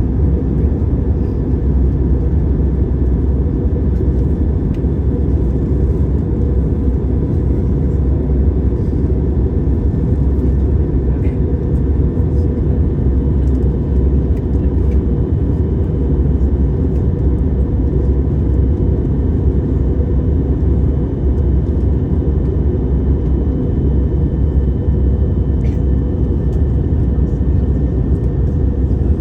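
Airliner on its approach to land: a steady, unbroken low drone of engine and airflow noise, with faint steady whining tones above it.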